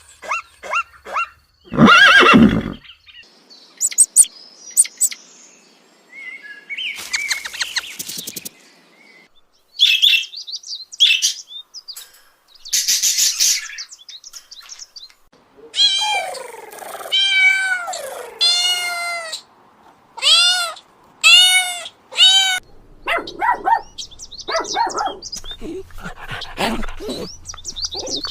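A series of different animal calls cut one after another. About halfway through comes a run of repeated falling calls, roughly one a second.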